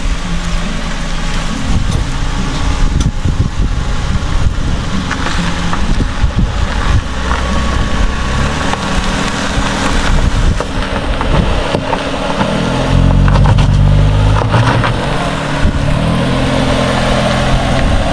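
Vehicle on the move: steady engine and road rumble whose pitch shifts now and then, with scattered short knocks.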